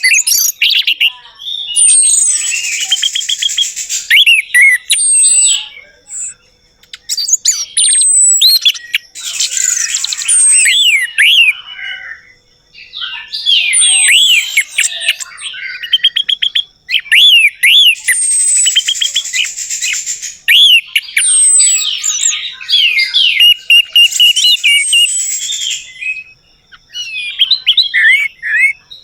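Orange-headed thrush (anis merah) singing loud, varied song phrases a few seconds long, separated by short pauses. The phrases mix high whistles that slur downward with quick rising and falling notes and rapid trills.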